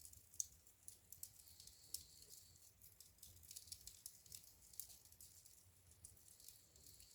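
Wood fire in a fireplace crackling faintly, with irregular small pops and snaps several times a second.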